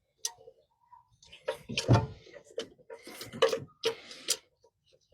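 Irregular clicks and knocks of tools and parts being handled during engine work, with a few louder strikes about two and three and a half seconds in.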